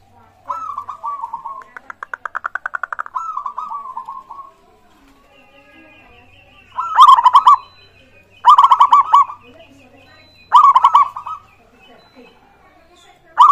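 Zebra dove (perkutut) singing: a cooing phrase broken by a fast rattling trill, then four short, loud, pulsed coos about one and a half to two seconds apart.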